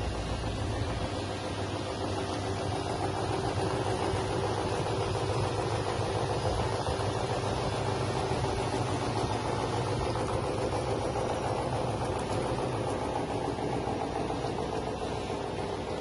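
Drum-type chicken plucking machine running steadily, its motor humming as the drum spins.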